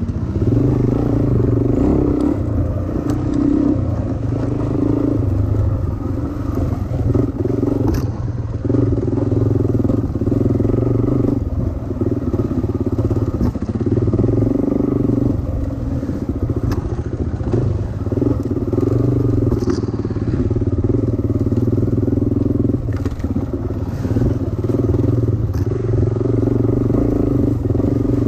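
Suzuki DRZ four-stroke single-cylinder dirt bike engine running under way, the throttle opened and eased off every second or two as it is ridden.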